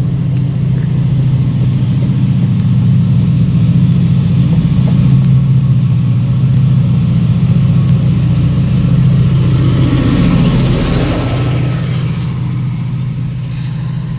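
British Rail Class 68 diesel-electric locomotive, with its Caterpillar V16 engine, running past with a steady low drone. A wider rush of noise swells about ten seconds in as it goes by, then eases.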